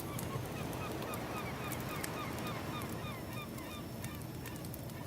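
A flock of birds gives many short, falling calls in quick succession, over the crackle of a wood fire and the low rush of surf.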